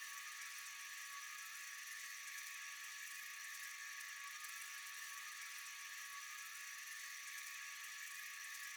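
Faint night-time insect chorus, a steady high-pitched buzzing with fine rapid pulsing that does not change.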